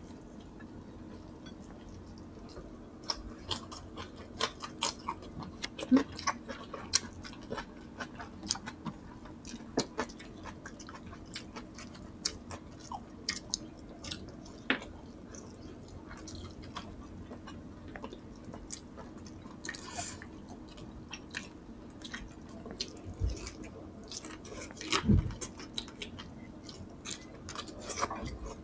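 Close-miked chewing and lip smacking of people eating boiled pork and rice by hand: many small, irregular wet clicks, with a couple of soft low thumps near the end.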